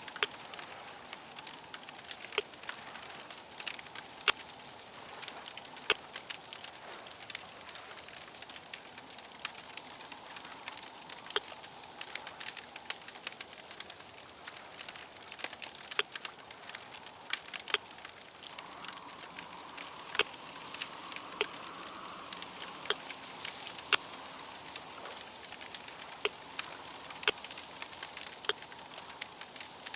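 Wood fire crackling, with irregular sharp pops and snaps over a steady soft hiss. A faint drone sits underneath and swells a little in the second half.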